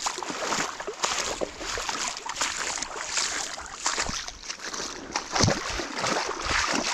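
Wading through a shallow creek: water splashing and sloshing with irregular steps, over the running water of the creek.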